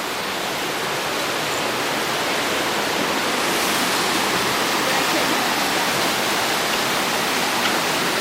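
White River's water rushing over rocks: a steady noise of flowing water that grows a little louder over the first few seconds, then holds.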